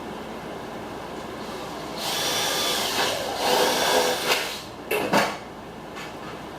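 Power drill running as it bores a screw hole, starting about two seconds in, running steadily for about three seconds, then two short bursts before it stops.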